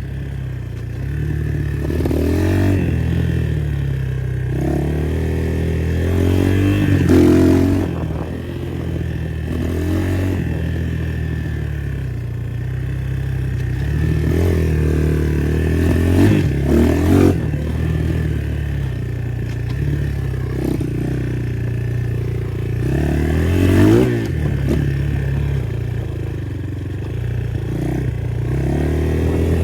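A 250 motocross bike's engine being ridden hard, revving up and dropping back again and again as the throttle opens and closes, with a rattle of the bike over the ground.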